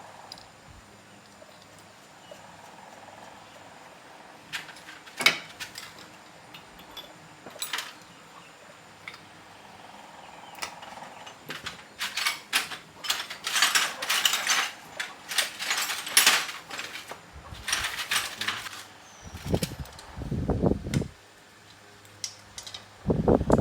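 Hand-work noises: a few sharp clicks, then a spell of rapid high clattering and scraping about halfway through, and dull low thumps near the end.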